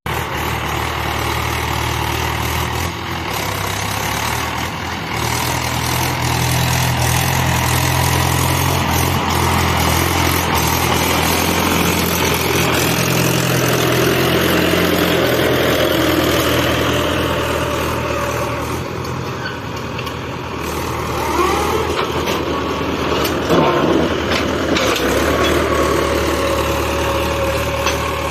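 Tractor diesel engine running steadily, its speed shifting a few times.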